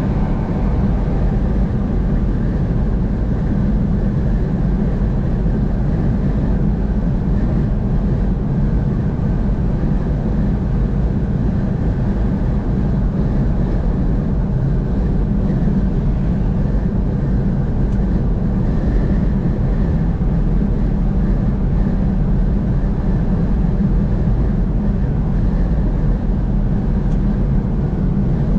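Car travelling at highway speed: a steady low rumble of road and engine noise that holds even throughout.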